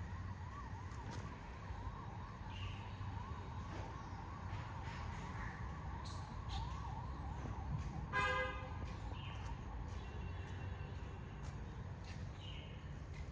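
A faint wailing siren, its pitch sweeping up and down about twice a second, over a low steady rumble for the first eight seconds. About eight seconds in comes one short, louder harsh call, with a few brief chirps scattered through.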